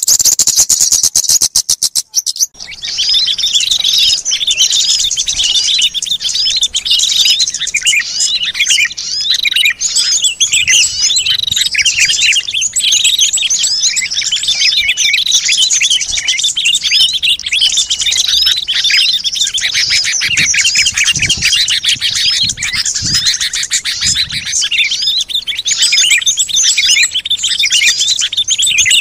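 Dense chorus of many small songbirds chirping and twittering over one another, a mixed recording used as a lure call for small birds. It opens with a rapid, even rattling trill that breaks off about two seconds in, after which the chirping runs thick and continuous.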